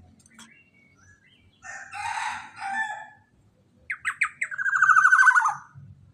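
Black-naped oriole (kepodang) calling: a harsh, rasping call about two seconds in, then a few sharp down-slurred notes running into a loud, rapid trill that falls in pitch.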